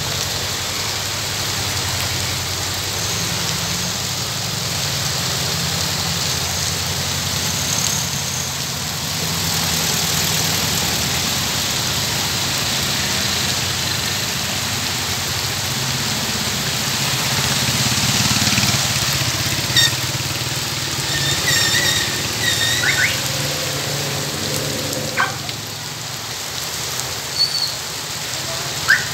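Steady rain falling on the street, with a vehicle engine idling low underneath. A few short high squeaks come about two-thirds of the way through.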